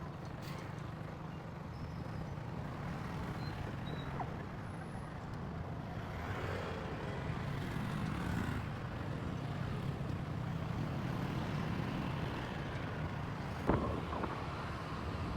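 Motorcycle running along the road: a steady low rumble of engine and road noise that builds slightly, with one sharp knock near the end.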